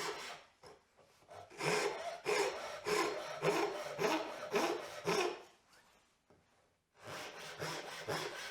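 Hand saw cutting through a board clamped in a wooden leg vise, in even back-and-forth strokes about two a second, pausing twice. The workpiece is held solidly, with no chatter or vibration in the cut.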